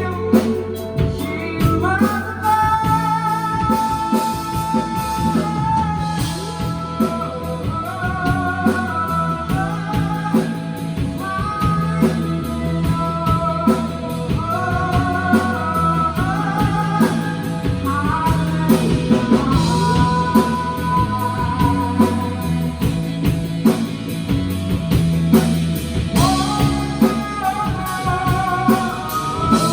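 Rock band playing live: a sung melody with long held notes over electric guitar, bass and a drum kit.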